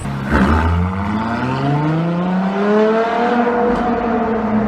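Ferrari LaFerrari's V12 engine accelerating hard, its pitch climbing for about three seconds and then holding steady.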